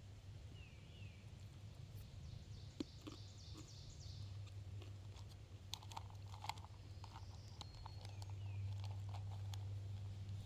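Wild birds calling and singing: short descending chirps, a quick run of high notes and a held high note, over a steady low hum. A few sharp clicks or crunches stand out around the middle.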